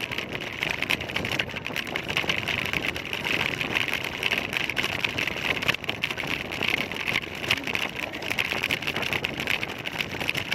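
Motor scooter riding along a road: steady engine running mixed with road and wind noise on the scooter-mounted camera's microphone.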